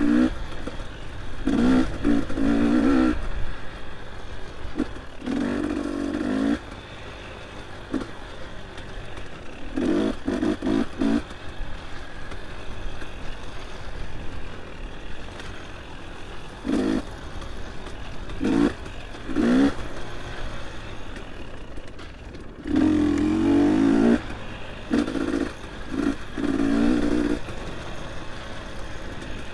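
Dirt bike engine on a trail ride, revving in short bursts of throttle about every one to three seconds, dropping back to a quieter run between them, with some clattering.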